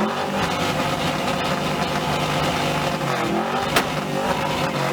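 A car engine revving through its exhaust, held at steady high revs, dipping and climbing again a little past three seconds, with one sharp crack near four seconds and the revs dropping at the end.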